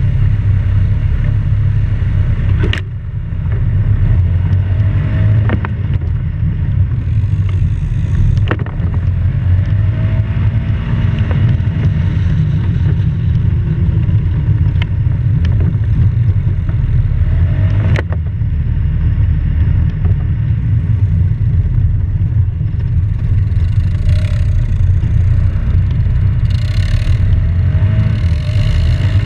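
Polaris off-road vehicle driving, picked up by a GoPro mounted on its front: a loud, continuous low rumble of engine and wind on the microphone, with a few sharp knocks and rattles from the rough ride.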